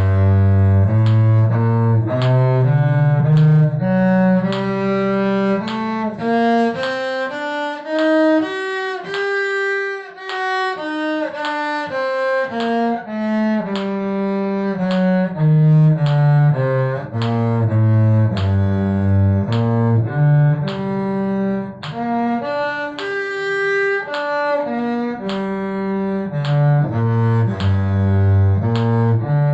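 Cello bowing a two-octave G harmonic minor scale, held notes of under a second each climbing from low G to the G two octaves up and back down, then starting up again.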